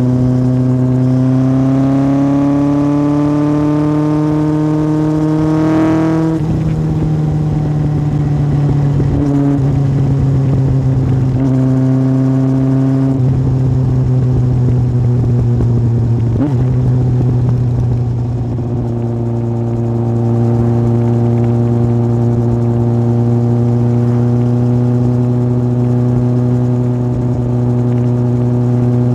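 Yamaha Fazer 1000's inline-four engine through an aftermarket MIVV exhaust on a moving motorcycle. It rises in pitch under acceleration for about six seconds, shifts sharply as it changes gear, varies with the throttle for a while, then settles to a steady cruising note for the last ten seconds.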